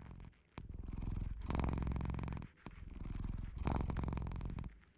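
Domestic cat purring close by, in two long swells of about two seconds each, with a short break between them.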